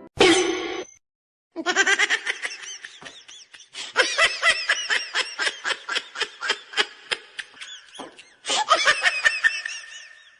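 A person laughing hard in a long run of quick, high ha-ha pulses, about five a second. There is a short break about a second in and a fresh burst of laughter near the end.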